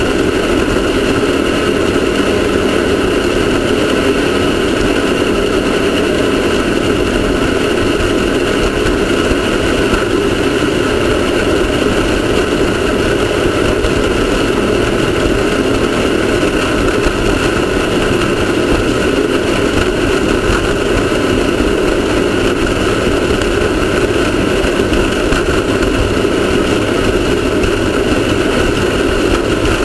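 Off-road race car's engine running steadily and loudly, its pitch holding constant.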